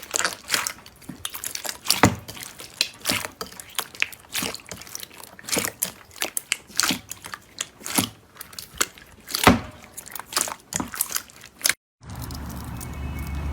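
Slime being squeezed and pressed by hand, crackling and popping with many quick irregular clicks. About twelve seconds in it cuts off abruptly and gives way to a steady low hum.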